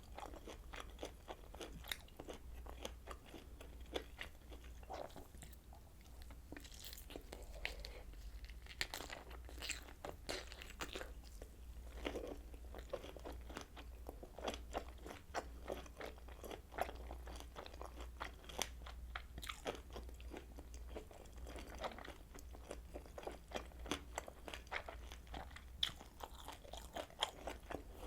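A person biting into and chewing kielbasa sausage: a dense, irregular stream of short wet clicks and smacks that never pauses, over a faint steady low hum.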